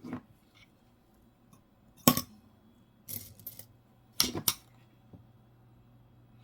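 Small metal coins being handled: a sharp click about two seconds in, then two short clusters of clicks and scrapes, near three and four seconds.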